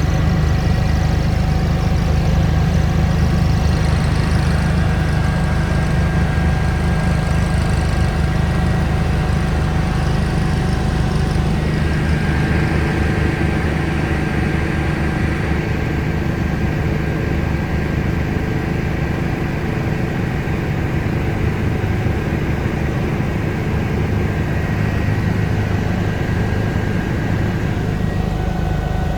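Eurocopter EC145 twin-turbine helicopter in flight: a loud, steady low drone of rotor and engines with several steady whining tones above it. The whine shifts slightly in pitch about twelve seconds in.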